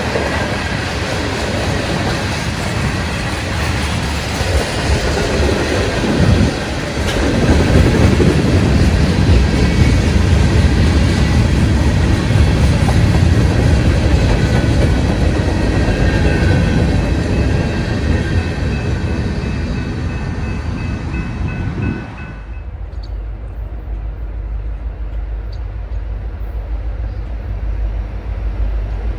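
A train rolling past at close range, a loud steady rush of wheels and cars with a few thin, steady high tones above it. About 22 seconds in the sound drops suddenly to a quieter low rumble.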